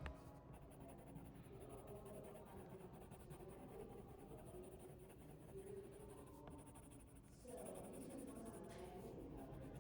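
Faint scratching on paper as a drawing is being coloured in.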